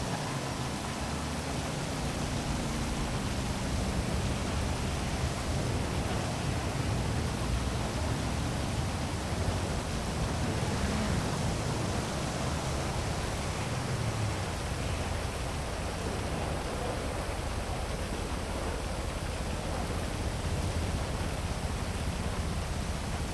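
Heavy rain falling as a steady, even hiss, with faint low hum of city traffic now and then beneath it.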